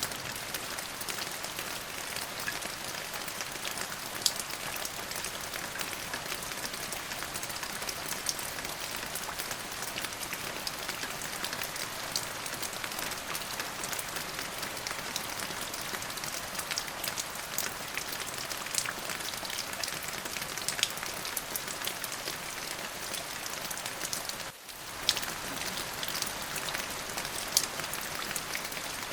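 Steady rain falling on a surface, an even hiss with scattered individual drops ticking sharply. About three-quarters of the way through, the sound briefly drops out for a moment.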